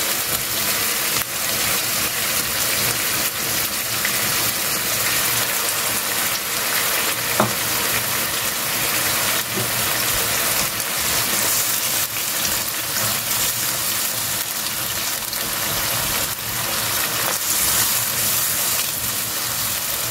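Onion paste, ginger paste and ground spices frying in hot oil in a wok: a steady sizzle, with one sharp tap about seven seconds in.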